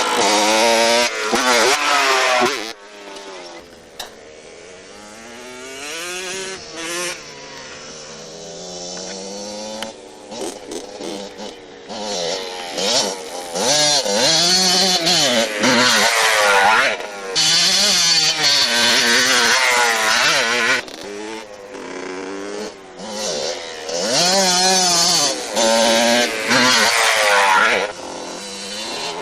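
Motorcycle engines revving up and easing off again and again, the pitch rising and falling. There are several loud spells of a few seconds, with quieter stretches between them.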